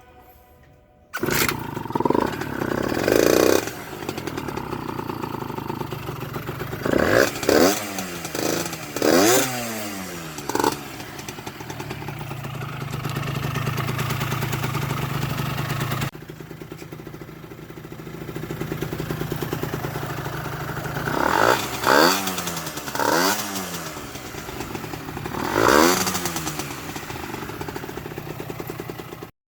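Honda NS-1 50cc two-stroke moped engine running, with the throttle blipped several times so the revs rise and fall between steadier running. It starts suddenly about a second in, cuts abruptly about halfway through, and stops just before the end.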